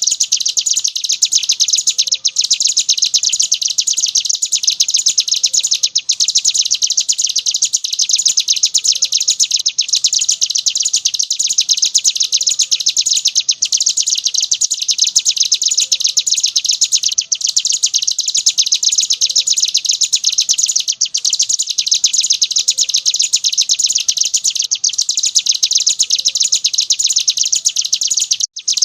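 Ciblek gunung (a prinia) singing in 'ngebren' style: a dense, rapid, high trill kept up without pause except for a very short break about every four seconds.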